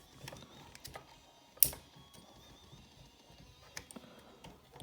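Scattered light clicks and knocks of a plastic transforming robot figure being handled and posed, its joints moved, with one sharp, loud click about a second and a half in.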